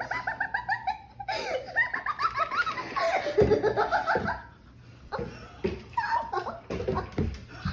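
People laughing hard in quick, repeated bursts of ha-ha sounds. The laughter is loudest between about one and four seconds in, then eases off into quieter laughs.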